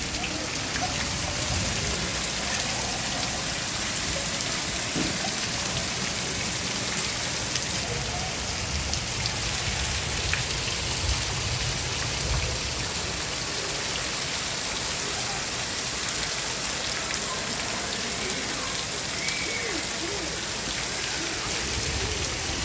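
Rain falling steadily, an even hiss of drops landing on surfaces.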